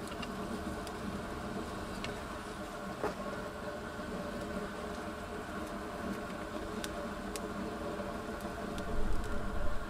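A steady low mechanical hum with a few faint clicks. A brief low rumble comes near the end.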